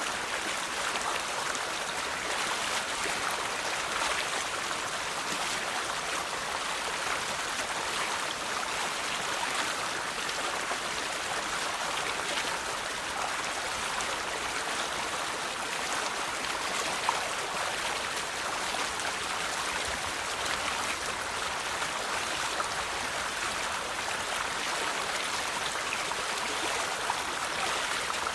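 River water flowing over rocks, a steady rushing babble with small splashes. About 17 seconds in there is one brief sharper splash or tick.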